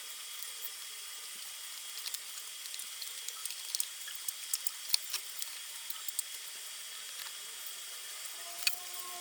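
Scattered light clicks and taps of small fan motor parts being handled and fitted together, over a steady hiss.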